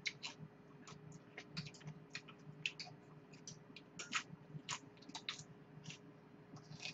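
Crisp, irregular crunching of raw vegetables being bitten and chewed close to the microphone, a scatter of short sharp crackles.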